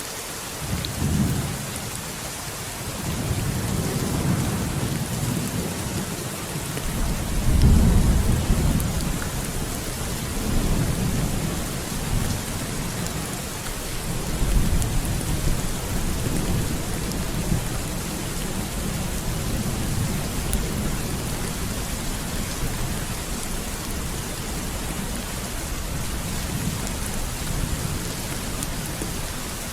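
Steady heavy rain hissing, with rolls of thunder rumbling over it: a short one about a second in, then longer rumbles, the loudest around eight seconds in and another near the middle.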